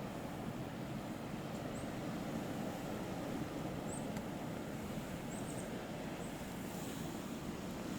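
Steady low rushing of blizzard wind, with a few faint high chirps scattered through.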